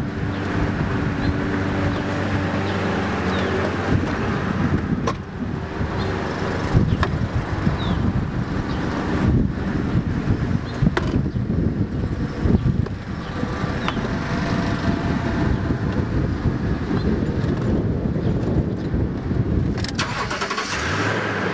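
A motor vehicle engine running close by, a steady hum and rumble, with a few sharp knocks.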